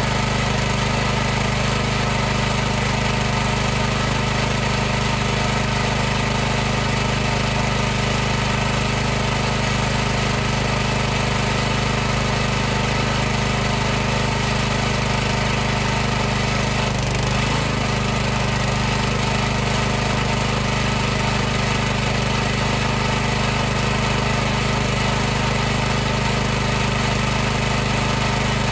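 High-pressure washer running steadily: a constant mechanical hum over an even hiss.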